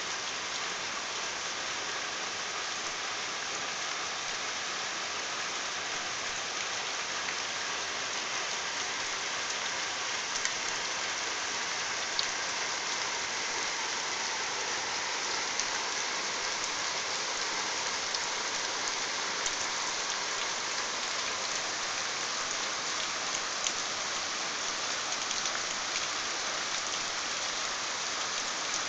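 Steady heavy rain falling on trees and roofs, an even hiss, with a few sharper drop ticks now and then.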